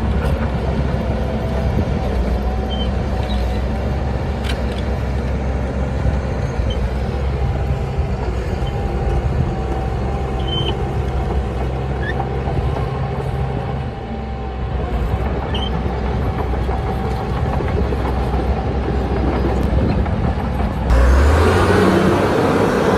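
Diesel engine of heavy earthmoving machinery running steadily under work, with a thin steady whine above the engine note. The sound turns abruptly louder and rougher near the end.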